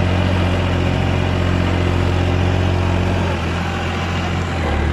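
Farm tractor's diesel engine running steadily close by, its note shifting slightly about three seconds in.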